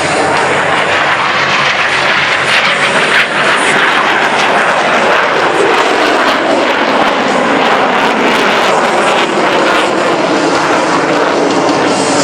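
Loud, continuous jet noise from F/A-18E/F Super Hornets flying past, their twin turbofan engines at high power.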